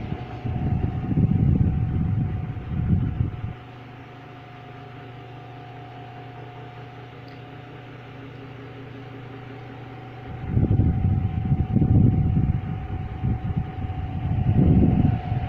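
1960s Walita 30 cm all-iron electric fan running, a steady hum with a steady whine over it. Loud low rumbling gusts of wind noise on the microphone, from the fan's airflow, during the first few seconds and again from about ten seconds in.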